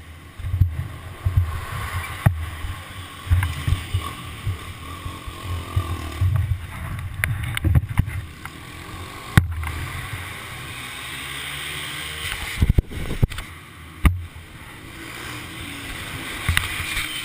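Wind buffeting on a helmet-mounted camera's microphone while riding: an uneven, gusty rumble with several sharp knocks scattered through it.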